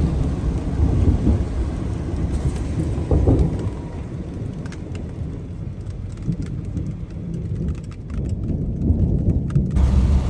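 Rain and a deep, uneven rumble as a Toyota Tundra pickup drives a gravel road through a thunderstorm. Scattered light ticks of rain hit the truck in the second half.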